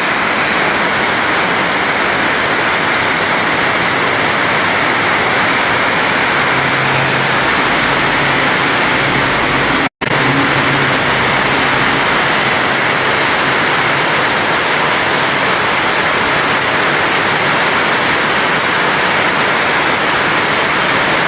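Heavy tropical downpour: a loud, steady hiss of pouring rain, which cuts out for an instant about ten seconds in.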